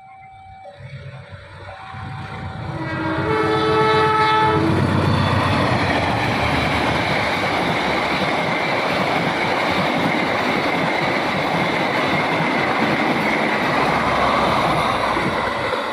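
Level-crossing warning bell ringing in two alternating notes, then a diesel locomotive horn blasts for about a second and a half, starting about three seconds in. A passenger train then passes at speed with a loud, steady rush of wheel and rail noise.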